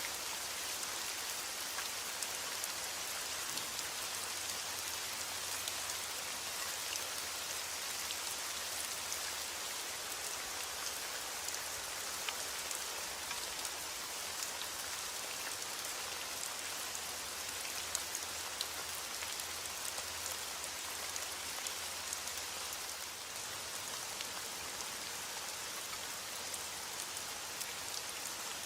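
Steady rain falling on a hard surface, a dense even hiss with many small drop ticks.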